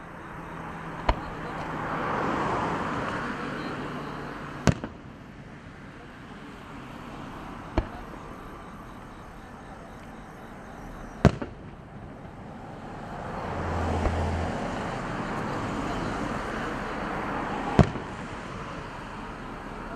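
Fireworks display: five sharp bangs of shells bursting a few seconds apart, with a noisy wash that swells and fades twice between them.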